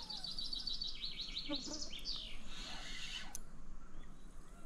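A songbird singing a rapid series of high chirps that steps down in pitch and stops about two seconds in. A single sharp click follows a little over three seconds in.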